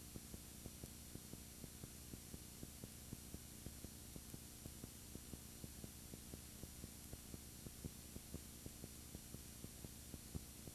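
Faint electrical hum and hiss from the recorder with a fast, even ticking, and no real sound of the scene: the noise a broken camera's audio channel makes.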